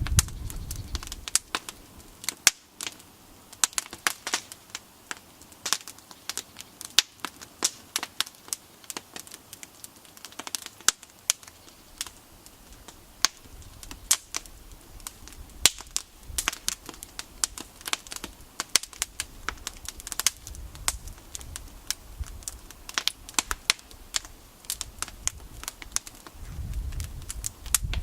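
Wood campfire crackling and popping: irregular sharp snaps, sometimes in quick clusters and sometimes a second or more apart, over a faint hiss. A low rumble comes in near the end.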